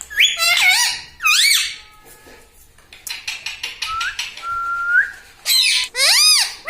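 Indian ringneck parakeet making shrill whistling calls that swoop up and down in pitch. About halfway through it gives a run of soft clicks and one held whistle.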